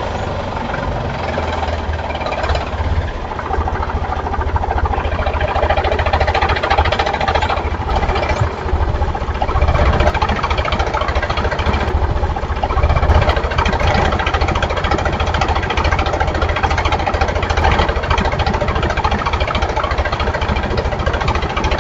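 Mini tractor engine running steadily at an even speed, with a rapid low knocking throb.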